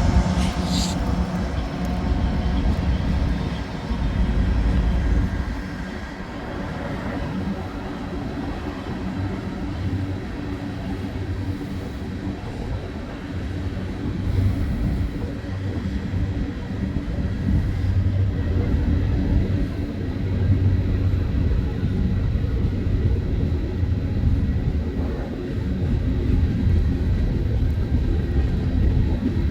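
Freight train running by with a steady low rumble that swells and eases slightly over the half minute.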